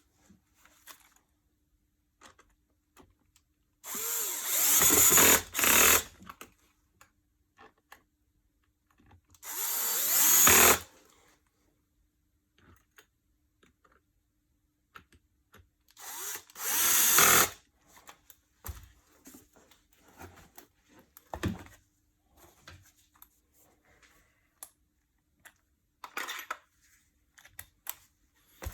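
Handheld electric drill-driver running in three short bursts of about two seconds each, spinning up at the start of each, with light clicks and knocks of handling between.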